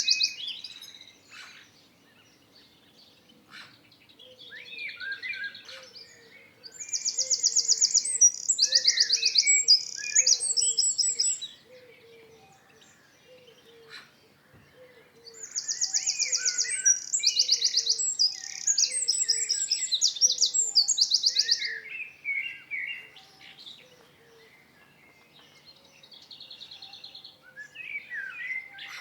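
Songbirds singing: two long phrases of rapid high trills mixed with lower warbled notes, a softer phrase near the end, and under them a low short note repeating about once a second.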